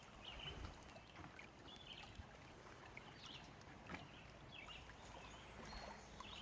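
Near silence: faint outdoor ambience by the water, with a few short, faint high chirps.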